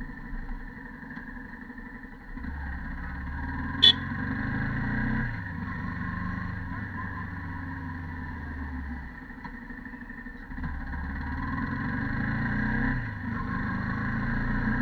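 Yamaha YZF-R15 V2.0 motorcycle's single-cylinder engine running on its stock exhaust while being ridden, its note dropping and later rising as the throttle changes. A sharp click about four seconds in.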